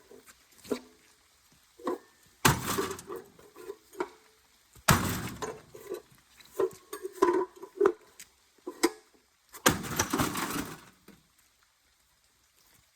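Heavy metal-and-glass crashing as an old rusty microwave is struck: three big hits a few seconds apart, each followed by about a second of rattling debris, with smaller knocks in between.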